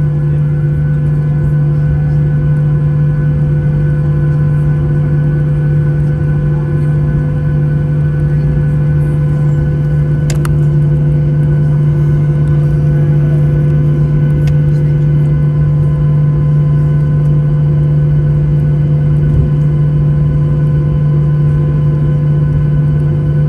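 Cabin noise of a Boeing 737-800 with its CFM56 turbofan engines running: a loud, steady drone with a strong low hum and a few steady higher tones. A single faint click comes about ten seconds in.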